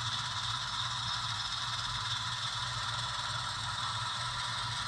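Sound-equipped HO-scale model diesel locomotive running steadily as it backs up a cut of cars, its engine sound a constant low hum with an even hiss over it.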